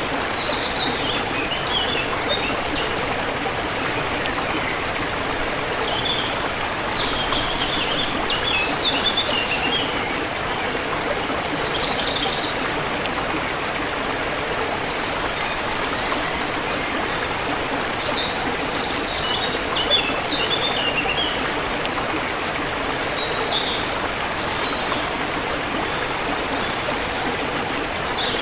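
A stream flowing and splashing steadily, with birds chirping in short high bursts several times over it.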